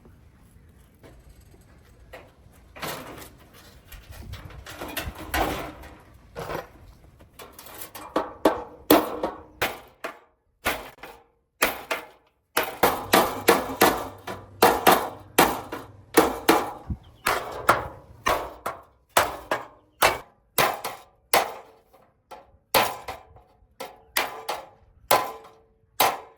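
Hammer striking a sheet-metal truck body panel to beat out a dent: repeated blows, sparse and softer at first, then steady at about two a second, each with a short metallic ring.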